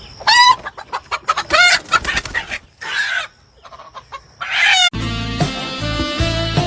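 A chicken calling loudly several times in short, high, pitch-bending squawks. About five seconds in it cuts abruptly to background music.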